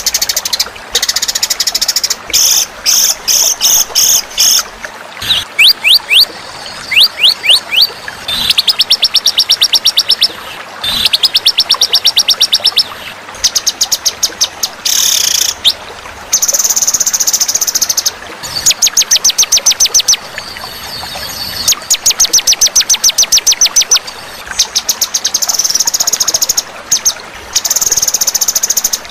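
Songbird masteran recording for training cage birds: loud bursts of rapid chattering trills, each one to two seconds long, repeating with short gaps, with a few quick rising whistles near the start.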